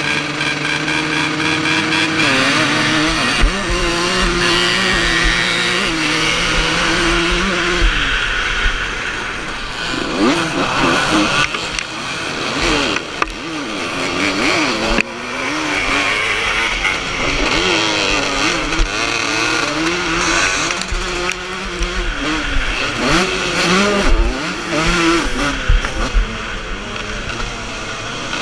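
Vintage motocross motorcycles racing, several engines at once revving up and down as they ride the track.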